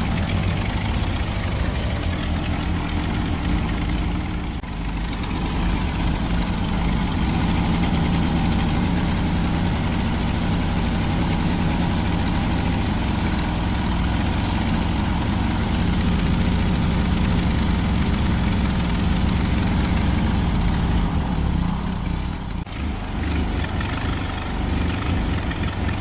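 Freshly rebuilt 1967 Porsche 912 air-cooled flat-four engine running steadily at idle, with brief dips in level about four and a half seconds in and again near the end.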